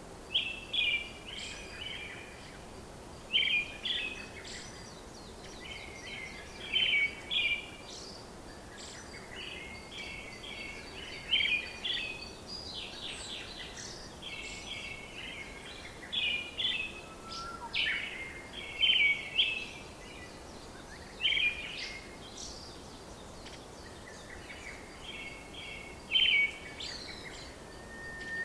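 Birdsong: short bursts of quick, high chirping notes every two to three seconds over a faint steady hiss.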